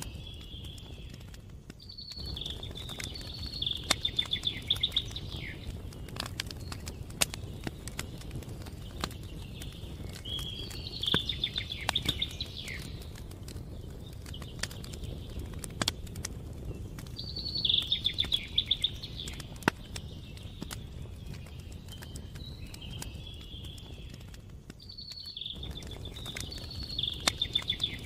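A campfire crackling with scattered sharp pops over a steady low rush. A songbird sings a trilled phrase of two or three seconds about every seven seconds, four times in all.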